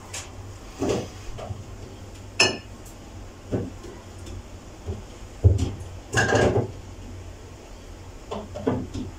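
Irregular knocks and clatters of hard objects being handled, about half a dozen. One, about two and a half seconds in, rings briefly like a clink, and a longer clatter comes a little past six seconds.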